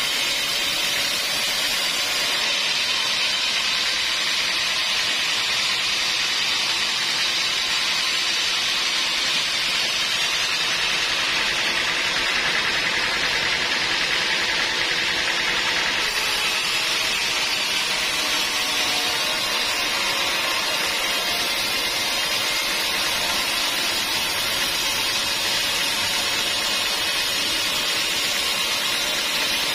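Sawmill saw cutting through a log: a steady, loud hissing whine of blade in wood, unbroken throughout.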